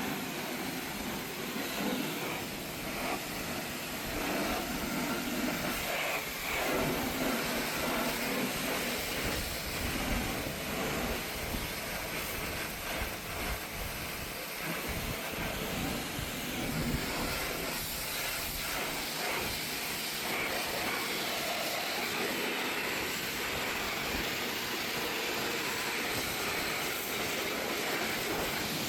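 Steady hissing rush of car-wash equipment running continuously, with no breaks.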